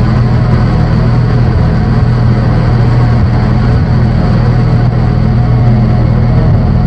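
Loud, unbroken synthesizer drone of noise music: a steady low hum with thick, wavering overtones shifting above it.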